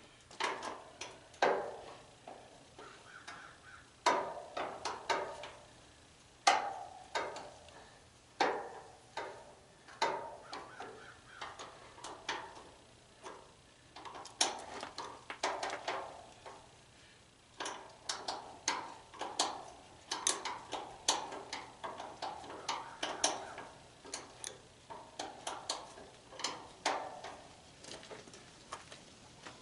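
Irregular clinks, clanks and knocks of hand tools on the metal and plastic parts of a tanning bed being taken apart, with fasteners being worked loose. The knocks are sharp, come in uneven clusters and ring briefly.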